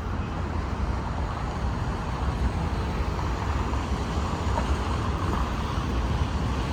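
Steady outdoor rumble of road traffic in a strong sandstorm wind, with the wind's low buffeting on the microphone.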